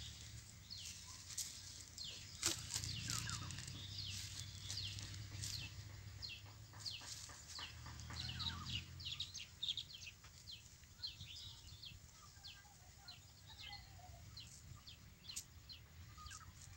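Small birds chirping faintly and often, in many short, quick calls that each drop in pitch, over a low, steady background haze.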